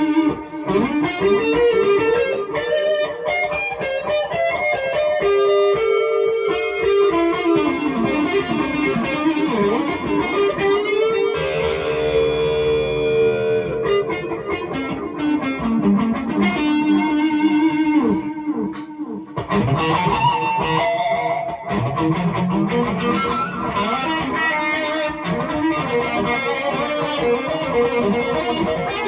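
Distorted electric guitar through a REVV G3 preamp/distortion pedal with a tape-echo-style delay, playing melodic lead lines with string bends and long held notes. There is a brief gap about 19 seconds in.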